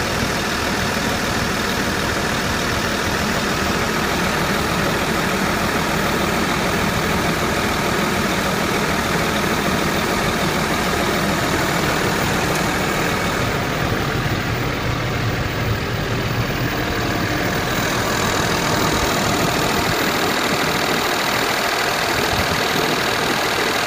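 Diesel engine of a 2005 Peterbilt crane truck idling steadily.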